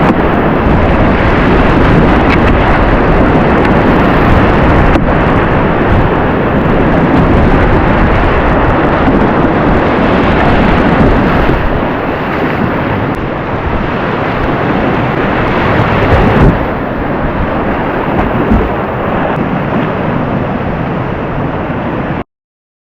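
Loud, steady rush of whitewater around a kayak, with low rumbling buffeting on the camera microphone. It cuts off abruptly about a second before the end.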